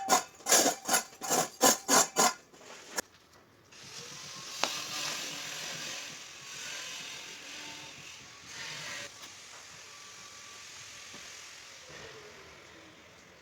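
Rhythmic scrubbing strokes on tile, about three a second, for the first two seconds, typical of cleaning grout haze off the tiles. After a click, a steady hiss follows and slowly fades away.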